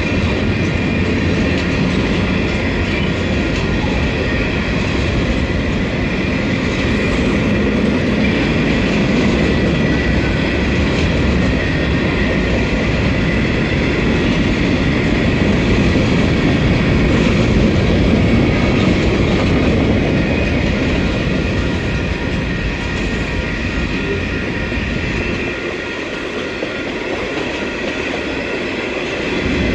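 Freight train cars rolling past a railway crossing: a steady rumble and clatter of steel wheels on the rails, with steady high-pitched tones over it. The low rumble eases for a few seconds near the end, then picks up again.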